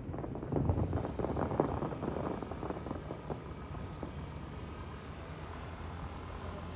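Fireworks bursting and crackling: a quick run of pops in the first three seconds that thins out and fades into a steady low rumble.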